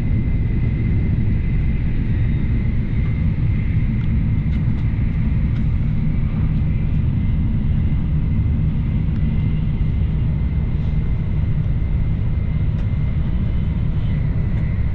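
Shinkansen bullet train cabin noise at speed: a steady low rumble with a faint steady high whine above it.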